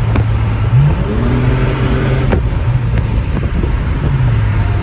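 Car engine running under way, its pitch gliding up about a second in, holding, and dropping back near the end, as the car accelerates and eases off. A short sharp click about halfway through.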